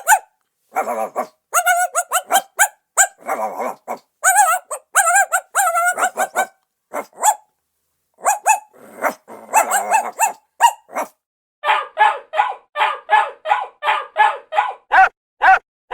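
Dog barking in short, irregular bursts, then near the end a fast even string of barks, about three a second.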